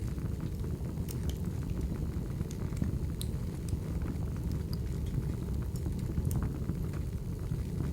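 Burning firewood: a steady low rumble of flames with scattered sharp crackles and pops.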